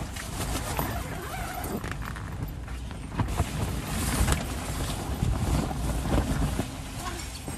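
Rain pattering on a car-camping tent, with steady rustling and scratching close by as a dog's curly fur brushes against the microphone.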